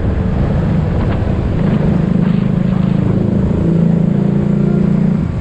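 Motorbike engine running steadily while riding, its pitch shifting a few times, over constant road noise.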